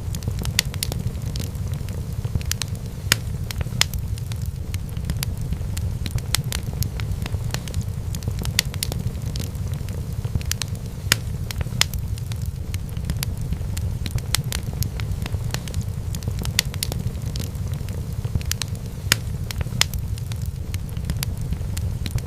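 Wood fire burning in a fireplace: a steady low rumble of flame with frequent irregular crackles and pops, a few of them sharper and louder.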